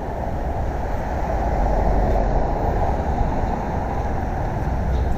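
Steady rushing noise and low rumble of riding through city streets: wind on the microphone mixed with road and traffic noise.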